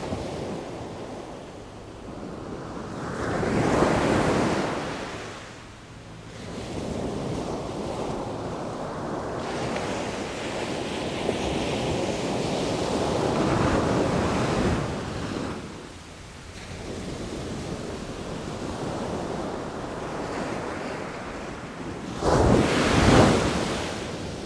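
Sea waves surging in and washing back in slow swells, one every several seconds, with the loudest and sharpest break coming near the end.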